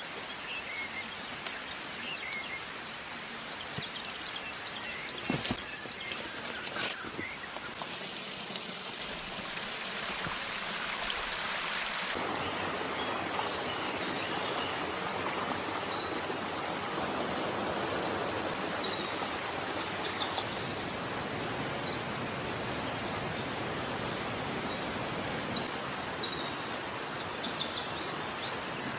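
Outdoor ambience: a steady rushing noise that grows louder about ten seconds in, with birds chirping high in the second half and a few sharp knocks about five to seven seconds in.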